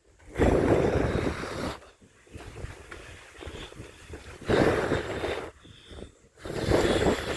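Strong storm wind buffeting the microphone in three loud gusts, with quieter lulls between them.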